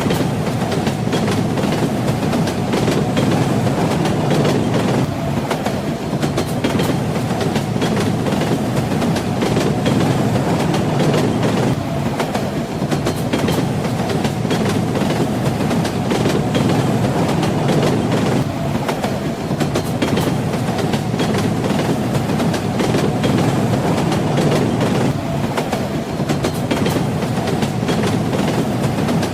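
Train wheels clattering over the rail joints with a steady low rumble, the clicks coming thick and continuous.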